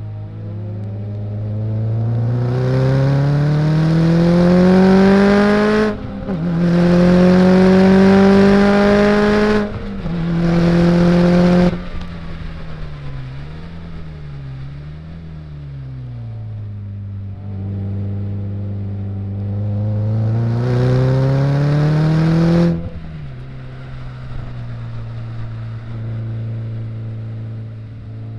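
Car engine heard onboard on a race track, pulling hard through the gears: the pitch climbs, drops at an upshift about six seconds in, climbs again, and the throttle is lifted around twelve seconds in. Revs waver lower for a few seconds, then another long climb cuts off abruptly near the end, settling to a steady lower drone.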